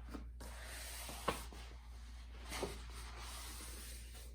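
Folded poster board being rubbed along its crease to sharpen the fold, a steady scraping hiss of card on card, with two light knocks about a second and a half apart.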